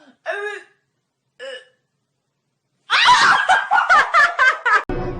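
A cat meows, with a second shorter meow, then a person laughs loudly for about two seconds; music starts near the end.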